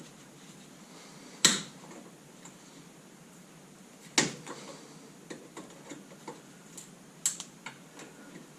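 Sharp metallic clicks and snaps from hand tools working at a metal clip on a car's tie rod. Two loud snaps come about a second and a half and four seconds in, followed by a run of smaller clicks.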